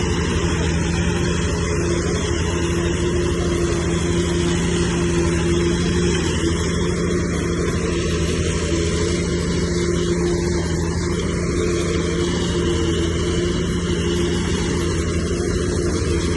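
Bulldozer's diesel engine running steadily at an even pitch, held at working revs.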